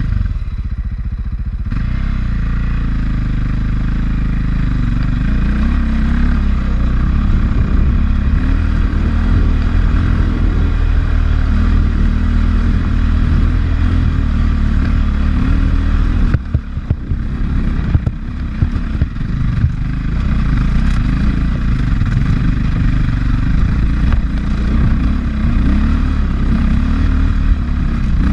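A 450 enduro dirt bike's four-stroke single-cylinder engine running hard under throttle on a trail ride, with the chassis clattering. The sound comes up abruptly right at the start and eases briefly about sixteen seconds in before picking up again.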